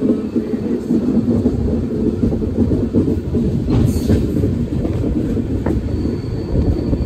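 Tamil Nadu Express passenger coach running along the track, with the steady low rumble of its wheels on the rails. A short hiss comes about four seconds in, and a faint thin high whine joins from about six seconds on.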